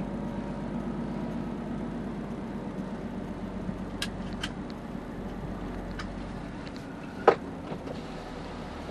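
HGV truck's diesel engine running steadily, with a few sharp clicks over it, the loudest about seven seconds in.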